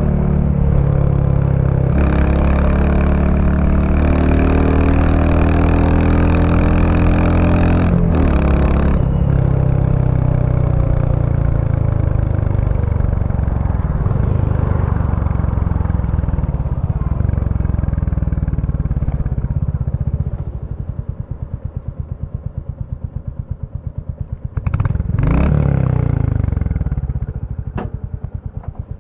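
2023 Royal Enfield Bullet 350's single-cylinder engine through its stock exhaust, pulling up through the gears with two shifts in the first nine seconds, then rolling off and slowing. It drops to an idle of distinct separate beats, with a short blip of the throttle about three-quarters of the way through before settling back to idle.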